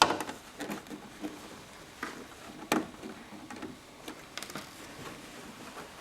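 Jacket fabric rustling and light clicks as the garment is pivoted around a lowered sewing machine needle, with one sharper click a little under three seconds in.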